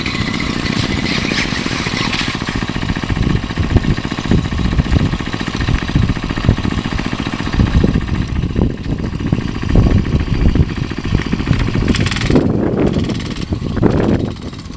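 Minibike's small gasoline engine running as it is ridden.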